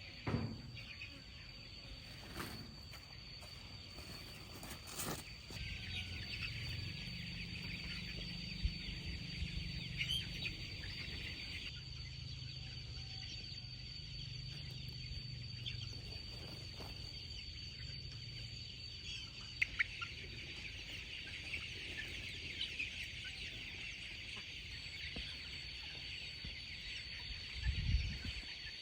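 Chickens clucking over a steady high hiss of fine patter.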